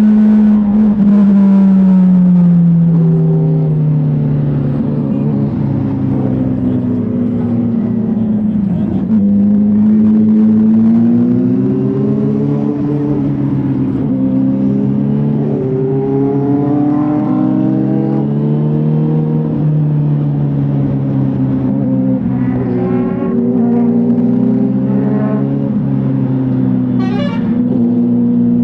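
Motorcycle engine running under way, its pitch sinking and climbing several times as the rider eases off and speeds up again, with a rumble of wind and road beneath.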